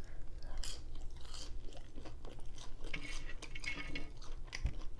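A person chewing a mouthful of French fries, a steady run of small clicks and smacks.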